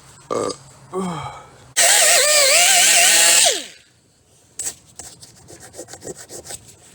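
A handheld power tool stripping rust from car body metal runs loudly for about two seconds, its motor whine wavering as it bites, then winds down with a falling pitch. Scattered light clicks and taps follow.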